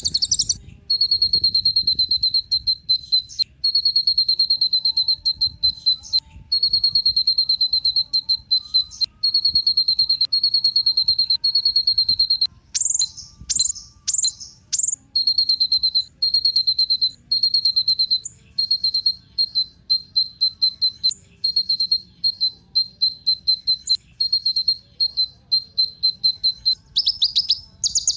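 Kolibri ninja sunbird singing: high, very rapid buzzing trills in phrases of one to two seconds with short gaps. A few louder, higher downward-sweeping notes come about halfway through, the phrases grow shorter and choppier after that, and more sweeping notes return near the end.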